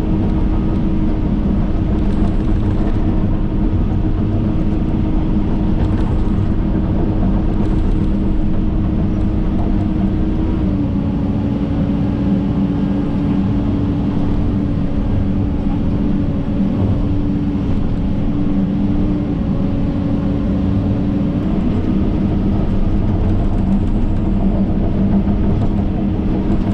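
John Deere 130G excavator's diesel engine running steadily under load, with a steady whine that steps slightly lower in pitch about ten seconds in and again about twenty seconds in.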